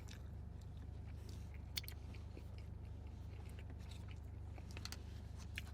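Faint chewing of food close to the microphone, with a few soft mouth clicks scattered through it over a steady low hum.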